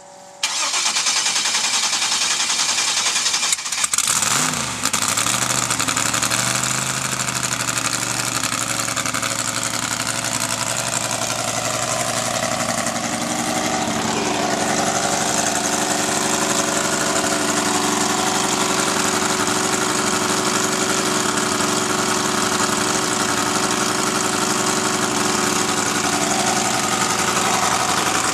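Lifted pickup truck's engine running loud, with a brief dip and swing in pitch about four seconds in, then settling into a steady idle.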